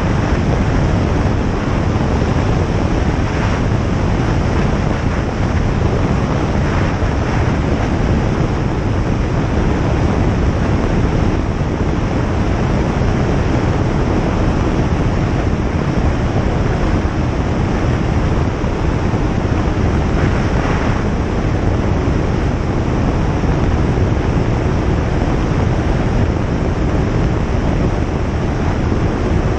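Single-engine light aircraft in flight heard from inside the cabin: the engine and propeller drone steadily under a dense rush of airflow, level and unchanging throughout.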